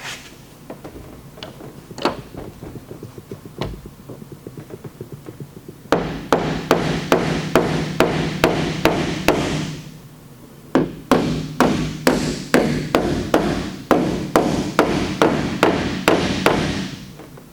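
Body hammer striking the high spots of a dented metal liftgate panel to knock them down while a glue-pull tab holds the low out. The first six seconds are light scattered taps, then rapid hard strikes about three a second, a short pause around ten seconds in, and more strikes to near the end.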